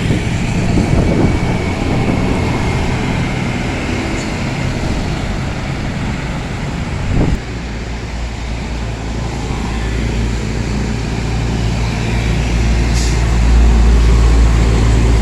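A heavy truck running on the road, its engine and road noise steady. About seven seconds in there is a sharp click, and after it a deep engine drone builds and grows louder toward the end.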